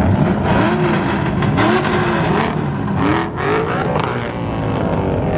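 Car engines being revved repeatedly, the pitch rising and falling several times over a steady engine rumble.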